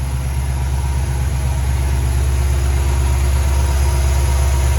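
Ford 302 V8 idling steadily with fresh header gaskets and no exhaust leak, running smoothly on new spark plugs.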